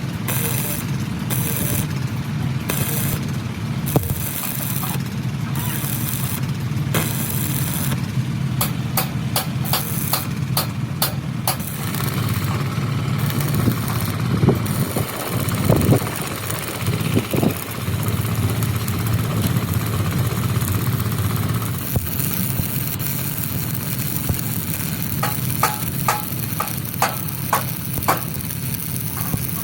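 An engine running steadily, with irregular sharp clicks and knocks over it and a steadier, higher-pitched tool-like tone through the middle.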